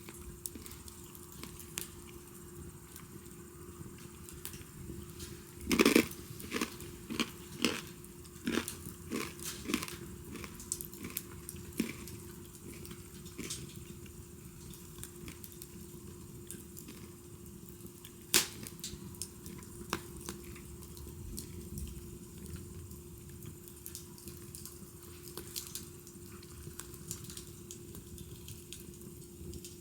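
Wood fire crackling, with irregular sharp pops of burning wood; a run of louder cracks comes about six seconds in and a single sharp pop near eighteen seconds.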